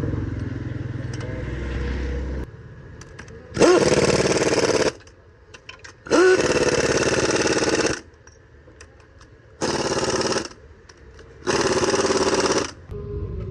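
A power tool run in four bursts of one to two seconds each, the first two spinning up with a rising pitch. Before them there is a low steady hum, and light clicks fall between the bursts.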